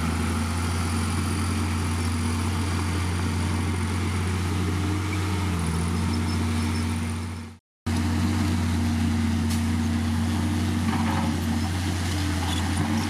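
Heavy diesel earthmoving machinery engine running steadily with a deep, even hum, cutting out abruptly for a moment about seven and a half seconds in and picking up again unchanged.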